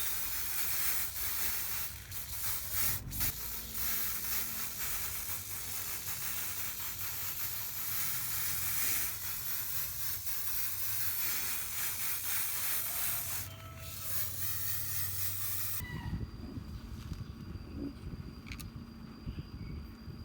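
Steady hissing of a pressurised spray, cut off sharply about sixteen seconds in, after which a lower rumbling sound takes over.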